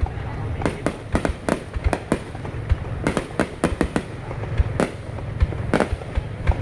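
Fireworks going off in quick, irregular succession: sharp bangs several times a second over a steady low rumble.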